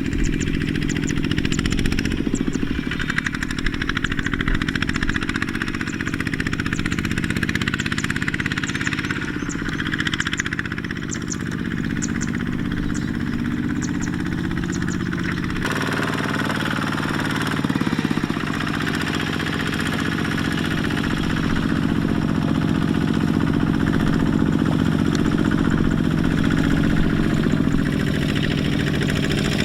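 Small Kubota tractor engine running steadily. The engine note shifts suddenly about halfway through.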